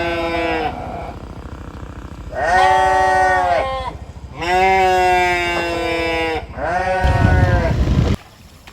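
Bleating livestock, a sheep or goat: one call tailing off just after the start, then three long, wavering bleats in a row, with a low rumble beneath the last one.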